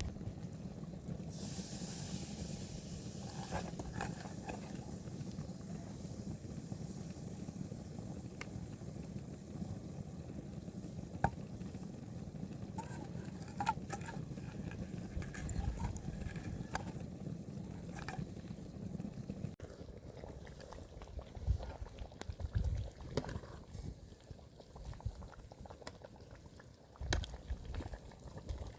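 A pot of liquid bubbling at the boil, with scattered light clicks and, after about twenty seconds, a few dull knocks.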